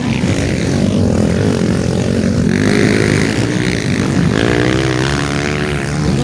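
Several motocross bike engines racing at once, their pitch climbing and falling over and over as the riders open and close the throttle and shift.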